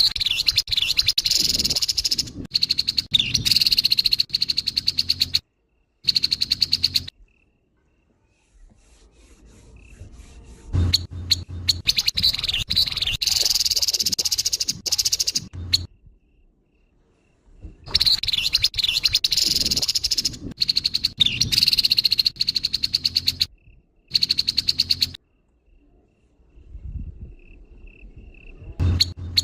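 Grey-headed babbler giving its harsh, rapid rattling calls in repeated phrases of a few seconds each, with short pauses between them.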